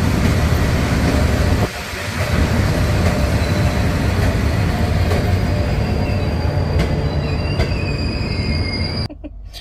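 Double-decker passenger train rolling past along the platform, wheels and running gear rumbling steadily, with thin high-pitched wheel squeal coming in about halfway through. The sound cuts off abruptly near the end.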